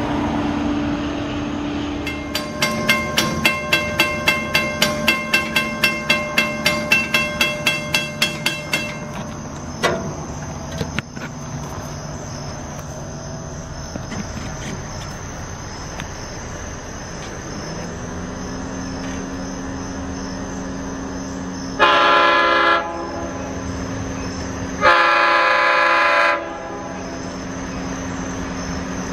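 Train at a station: a bell rings rapidly, about three strikes a second, for several seconds, then the diesel engine's tone rises and holds steady as it powers up, and the train horn sounds a chord twice, a short blast then a longer one.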